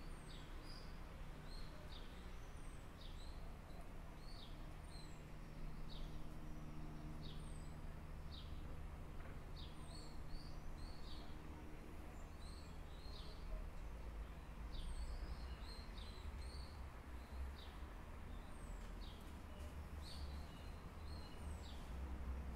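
Small birds chirping: short, high calls repeated many times over a steady low rumble of outdoor background noise.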